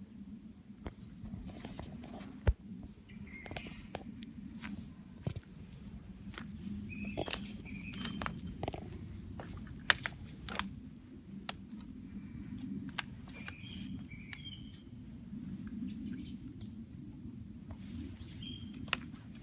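Small birds chirping in short, scattered calls, over a steady low rumble, with many sharp clicks throughout.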